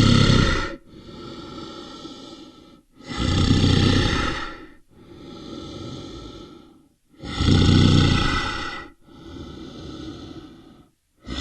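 Heavy, rhythmic breathing: a loud, rasping breath about every four seconds, with a quieter, longer breath between each.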